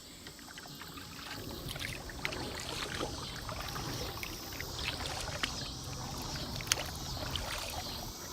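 Water splashing and trickling around a flat-water kayak, with many small irregular splashes and clicks.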